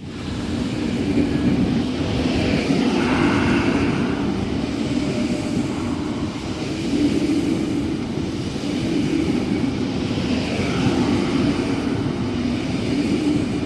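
Double-deck electric suburban train running through the station without stopping, with a steady rumble of wheels and motors.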